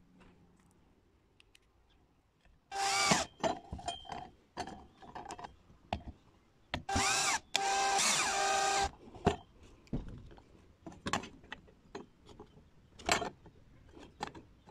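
Electric drill motor running in two short bursts, a brief one about three seconds in and a longer one of about two seconds near the middle, with clicks and knocks of handling between them.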